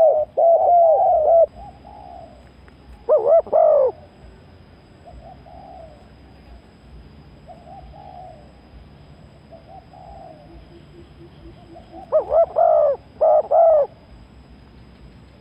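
Spotted dove cooing: loud phrases of rolling coo notes at the start, again about three seconds in, and twice more near the end, with fainter coos in between.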